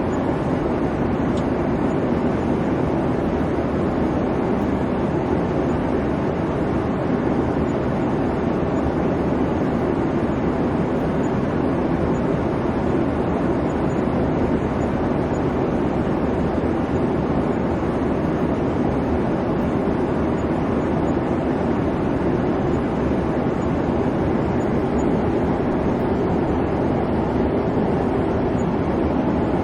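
Airplane cabin noise in flight: the steady hum of the engines and the rushing air, even and unchanging throughout.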